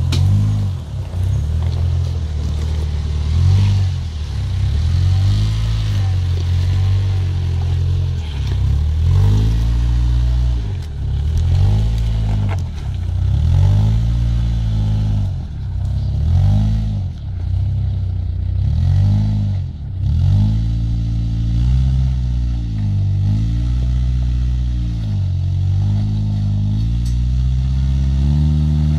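Suzuki Jimny's engine working under load as it crawls up a rocky hill climb, the revs rising and falling over and over, roughly every one and a half to two seconds, as the driver blips the throttle over each rock.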